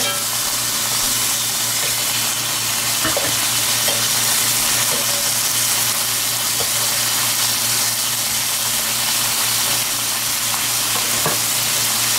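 Chicken breasts sizzling in hot oil in an electric skillet, a steady frying hiss. A few faint clicks of metal tongs against the pan come as the pieces are turned.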